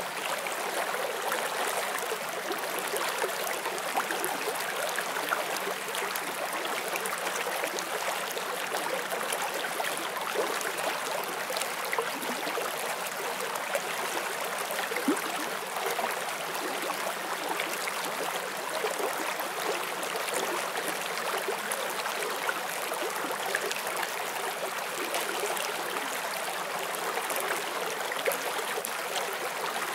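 Shallow forest stream flowing over rocks: a steady rushing hiss with small splashes and trickles throughout.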